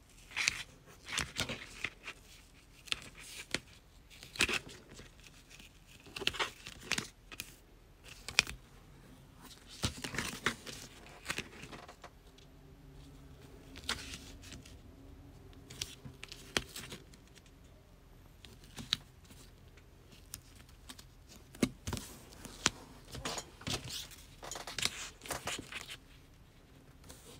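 Hands folding and pressing a vinyl-and-fabric strip onto double-sided tape: scattered crinkling, rustling and light taps, fewer in the middle of the stretch.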